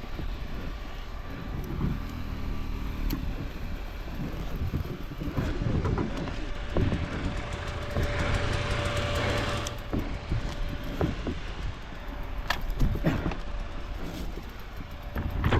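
Sherco enduro motorcycle engine running at fairly low revs, with scattered clatter and knocks. A stretch of hiss comes in about eight to ten seconds in.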